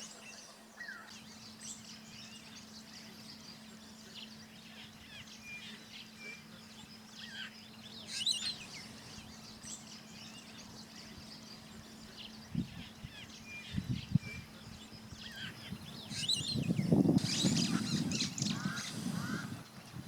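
Wild birds calling at a waterhole, many short high chirps and whistled calls coming and going. A faint steady low hum fades out about halfway through, and near the end a louder low rumbling noise comes in under the calls.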